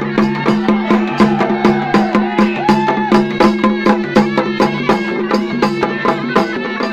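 Traditional folk music: fast, even drum beats at about four a second over a steady held drone, with a melody line that bends up and down.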